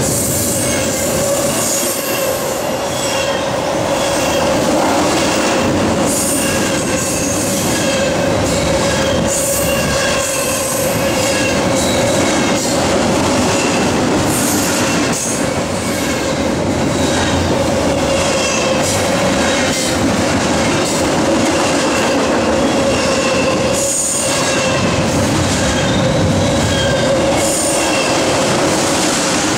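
Double-stack intermodal freight cars rolling past close by: a steady loud rumble of steel wheels on rail with a steady hum, and short high-pitched wheel squeals that come and go.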